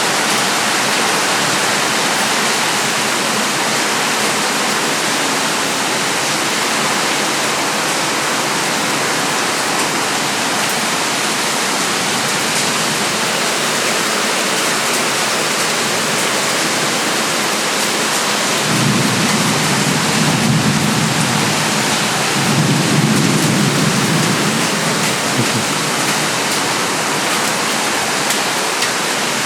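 Heavy rain pouring steadily, with two low rolls of thunder a little after the middle, one following close on the other.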